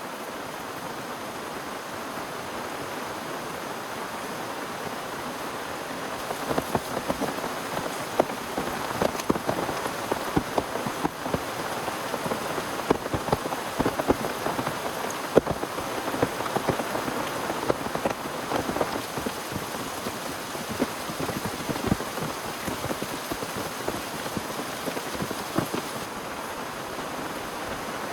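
Heavy rain falling steadily, with many large drops striking a nearby surface as sharp taps that grow denser and louder about six seconds in.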